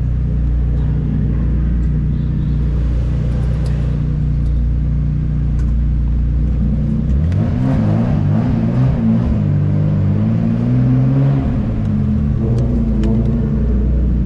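Turbocharged BMW M50 2.5-litre straight-six running steadily, then revving up and down several times about halfway through with a rush of noise as it pulls, before settling back to a steady drone.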